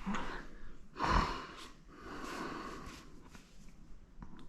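A man's breathing close to the microphone, with short nasal exhales, the strongest about a second in. A few light clicks near the end.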